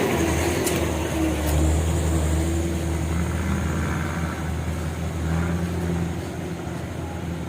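Diesel truck engine running steadily with a low hum, swelling a little twice as it works along the soft, muddy road.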